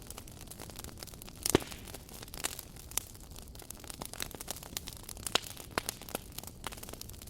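Wood fire crackling: irregular sharp pops and snaps over a steady low hiss, with one loud pop about a second and a half in.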